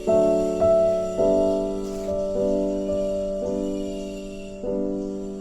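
Background music: slow piano chords, each struck and left to fade, about one every second.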